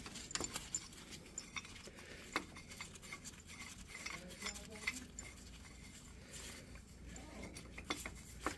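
Scattered light metallic clinks and taps of steel tools and parts being handled while a U-joint press is set up on the axle.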